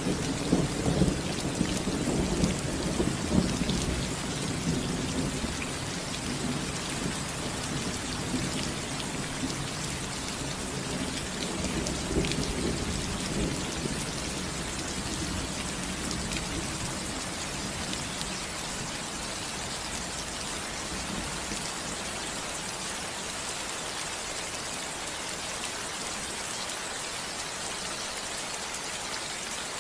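Steady rain falling on a roof, with rolling thunder rumbling through the first half, loudest near the start and again about twelve seconds in, then dying away to the rain alone.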